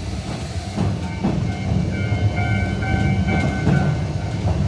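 Yokkaichi Asunaro Railway narrow-gauge train running on the line: a steady low rumble, with a high whining tone from about a second and a half in that fades out shortly before the end.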